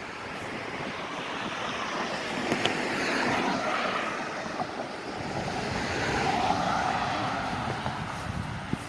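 A steady rushing noise that swells and fades twice, loudest about three seconds in and again about six and a half seconds in.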